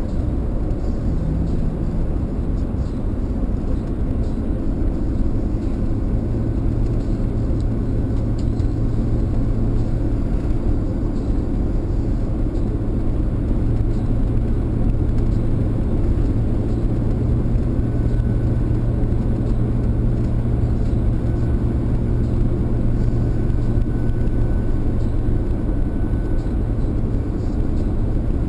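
Steady engine hum and tyre rumble heard from inside a car driving at an even speed.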